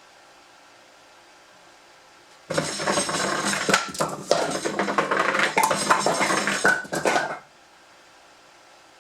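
Firewood sliding and tumbling down a culvert drain pipe chute: a dense clatter of knocks and rattles that starts suddenly about two and a half seconds in and stops sharply about five seconds later.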